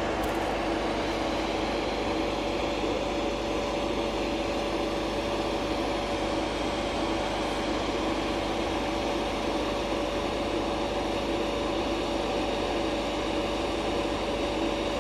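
Diesel locomotive engine running with a steady hum and a constant tone, unchanging throughout.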